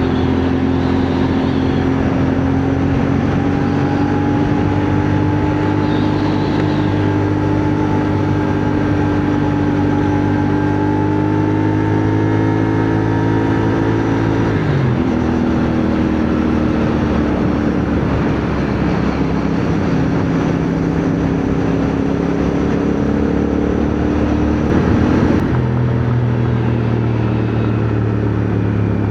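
CFMoto 450NK motorcycle's parallel-twin engine running under way, heard from the rider's position over a steady rush of wind. Its pitch climbs slowly, then drops sharply about fifteen seconds in and drops again about twenty-five seconds in.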